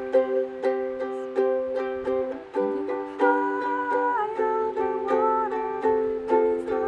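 Acoustic string instrument strummed in a steady, even rhythm of chords, an instrumental passage of a song. A wavering higher held note sounds over the chords partway through.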